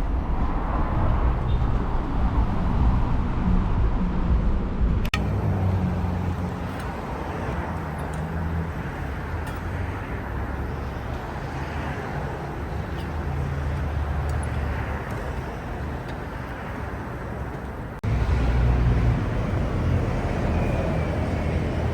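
Steady low rumble of motor vehicles: engine and traffic noise. It changes abruptly twice, about five seconds in and near eighteen seconds.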